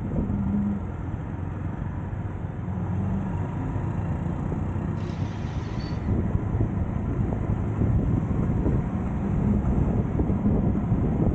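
Road traffic and vehicle engine noise heard from a vehicle moving along a city road: a steady low rumble with a few brief tones and a short brighter patch about halfway through.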